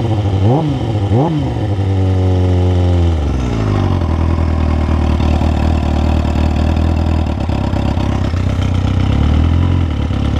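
Motorcycle engine idling while it warms up. It is blipped three times in quick succession in the first second and a half. About three seconds in, the idle drops to a lower, steady, rougher idle.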